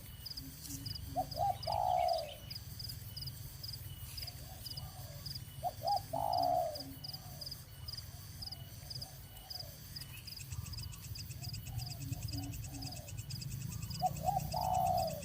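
A dove cooing three times, each call a short stuttered run of notes ending in a longer coo, over a steady high-pitched pulsing insect chirr.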